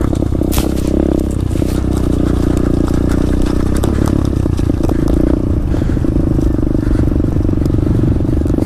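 2016 SSR 125 pit bike's small single-cylinder four-stroke engine running steadily at moderate revs, its pitch easing down and picking up a little with the throttle, with some light rattling.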